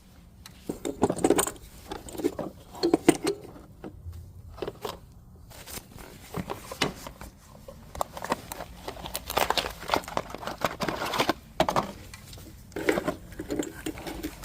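Metal hand tools and parts clinking and clattering in irregular knocks and rattles, as work goes on at the engine's belt and pulley area with the engine off.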